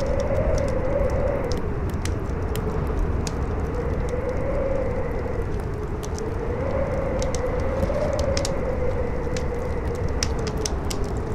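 Campfire crackling with many small, irregular pops over strong wind that howls in a tone rising and falling every few seconds.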